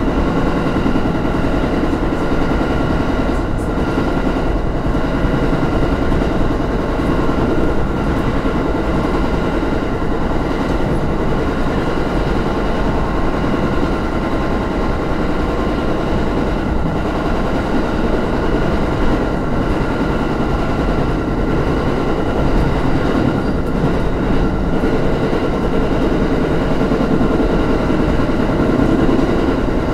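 Electric train running steadily at speed, heard from inside its rear cab: a continuous rumble of wheels on rail with a steady hum and faint occasional clacks.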